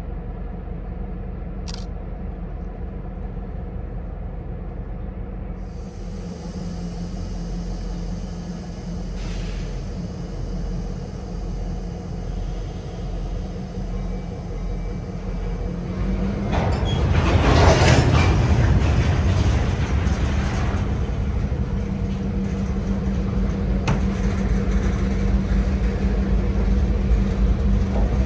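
Diesel train rumbling with a steady engine drone. About two-thirds of the way in it grows louder, with a few seconds of rushing noise, then keeps on at the louder level.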